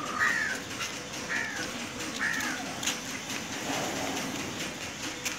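A bird calling three times, about a second apart.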